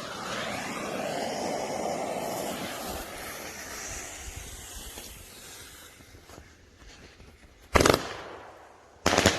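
Lit fuse of a Winda Starry Fall 30-shot, 500-gram fireworks cake hissing for several seconds and fading, then the cake's first two shots firing, a little over a second apart near the end.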